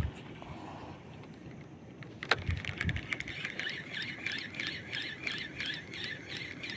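Shimano FX C3000 spinning reel: a sharp click about two seconds in, then the handle cranked steadily in a quick, regular rhythmic whir as the lure is retrieved.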